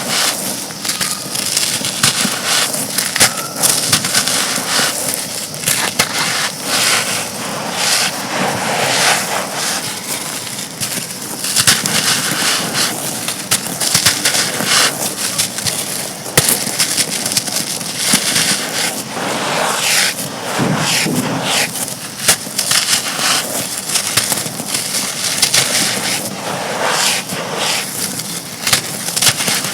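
Dry, brittle chunks crumbling and crunching, a dense run of crackles and small snaps that carries on without a break.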